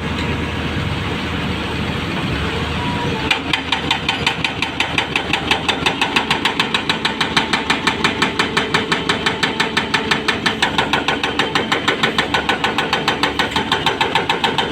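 Backhoe's diesel engine running during excavation work. From about three seconds in, a rapid, even metallic knocking, about six strikes a second, comes in over the engine.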